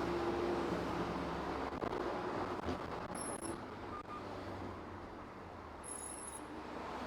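Car engine running at a steady idle, a low hum, with two short high-pitched squeaks about three and six seconds in.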